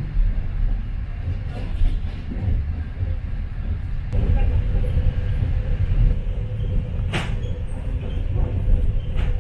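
Moving passenger train heard from inside the carriage: a steady low rumble of wheels on the rails, with a few sharp clacks, the loudest about seven seconds in. A faint steady whine joins about four seconds in.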